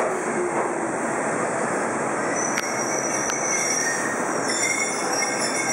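Toyama Chiho Railway electric train rolling into a station platform and slowing, with a steady rumble of wheels on rail. From about halfway in, high thin squeals come in as it brakes, and two sharp clicks sound in the middle.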